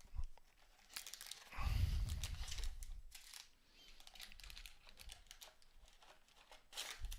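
Plastic wrapping crinkling and tearing as a box of trading card packs is opened by hand, with a dull thump about two seconds in.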